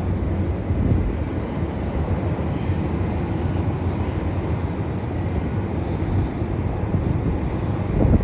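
Rex Airlines Saab 340 twin turboprop on its takeoff run, a steady rumble with a faint high whine, heard through wind buffeting the microphone, with a louder gust near the end.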